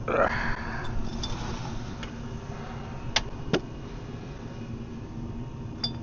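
A short swishing sound at the start, then two sharp clicks about half a second apart, over a steady low hum and background noise.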